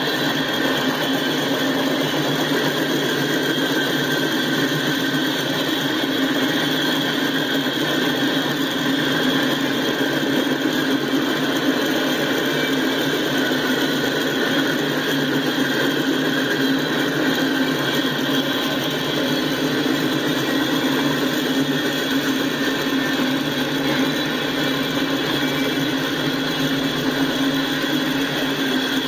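Freight train's tank cars and boxcars rolling past, a steady noise of steel wheels running on the rails.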